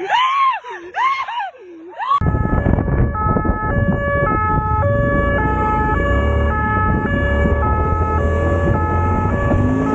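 Emergency vehicle siren wailing in quick rises and falls, then about two seconds in an abrupt change to loud rumble from wind and a motorcycle engine under a two-tone hi-lo siren, its two notes alternating about twice a second.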